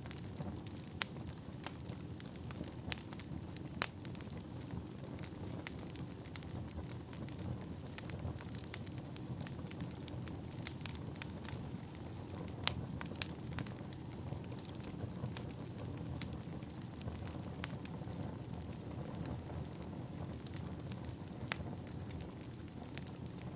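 Burning firewood crackling: a steady low rush of flame with irregular sharp pops and snaps scattered throughout.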